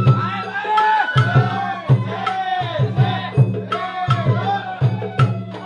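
Sawara-bayashi festival music from a float: taiko drum strokes two to three times a second with sharp high clicks, under a sliding, wavering melody line.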